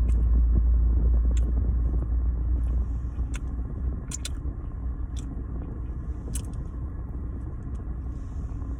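Mouth sounds of eating a doughnut, with sharp clicks and smacks now and then, over the steady low rumble of a car, which is louder for the first few seconds and then eases off.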